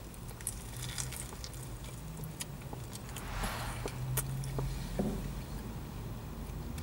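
A person chewing a mouthful of crispy chicken wrap: scattered soft mouth clicks and a brief crunchy rustle about three seconds in, over a low steady hum.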